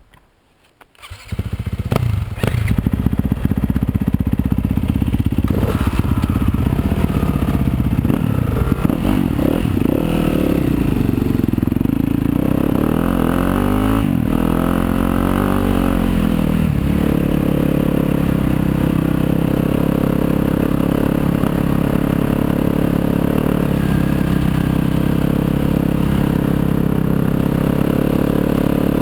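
Yamaha YZ250FX dirt bike's 250 cc four-stroke single-cylinder engine starting suddenly about a second in, then running; the revs rise and fall for several seconds in the middle, then hold steady.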